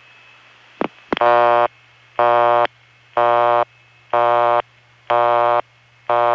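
Old Bell System busy signal from an electromechanical ringing machine, heard over a telephone line: a not-so-soft, harsh buzzy tone pulsing about once a second, half on and half off. Line hiss and hum run underneath, and a click comes just before the pulses start.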